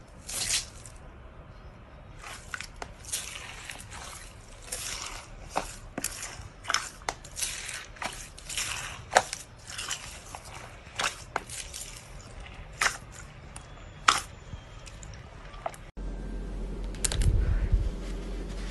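Slime being squeezed and pressed by hand, with irregular crackling pops and clicks from air bubbles bursting in it. About sixteen seconds in, a low steady hum joins the pops.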